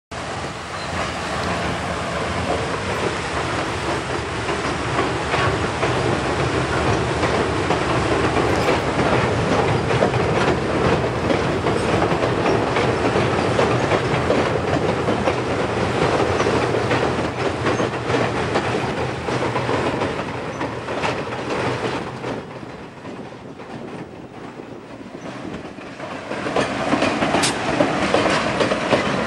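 Passenger train rolling across a steel truss bridge, its wheels clicking over the rail joints, with the EMD GP9 diesel locomotive pushing at the rear as it climbs the grade. The sound dips for a few seconds after about 22 s, then rises again near the end.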